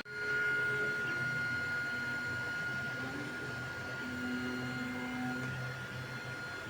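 Creality Ender 3 V3 3D printer running a print: its stepper motors sing in short held tones that jump in pitch as the print head changes moves, over a steady high whine and low hum.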